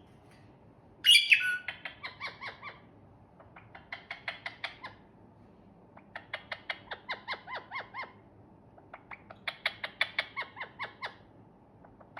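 Ringneck parakeet giving one loud squawk, then chattering in four bouts of rapid, evenly repeated short notes, about eight a second, with short pauses between bouts.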